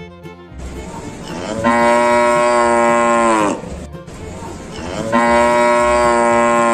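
A cow mooing twice, two long moos of about three seconds each that start breathy and fall in pitch at the end.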